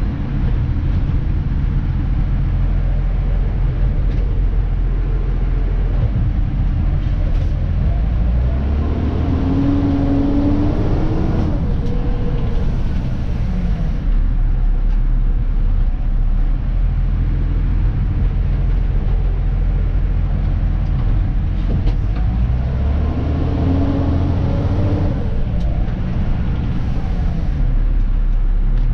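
Diesel engine of a Dennis Elite 2 refuse truck running steadily, heard from inside the cab. Twice, about ten seconds in and again near the end, the engine's pitch climbs and then falls away, and each time a short hiss follows.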